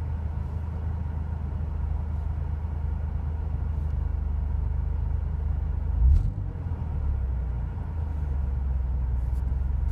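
Car engine idling with a steady low rumble, and one brief low thump about six seconds in.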